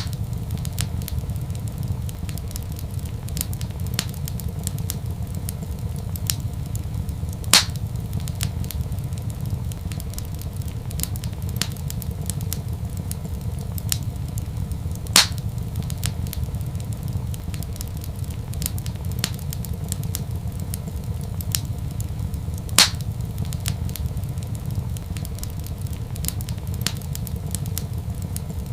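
Wood fire crackling in a fireplace: a dense run of small clicks over a steady low rumble, with a louder sharp pop about every seven and a half seconds.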